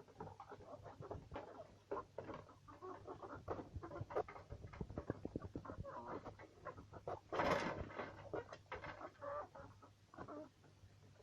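Chickens clucking while pecking rapidly at feed, a steady run of small tapping clicks, with one brief louder rustling burst about seven and a half seconds in.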